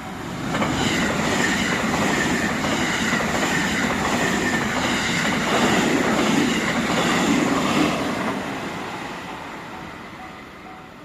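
A JR Kobe Line train passing through a level crossing: the noise of the cars and wheels on the rails comes in loud about half a second in and fades away over the last few seconds. The crossing's warning bell dings at an even pace, heard again near the end as the train noise dies down.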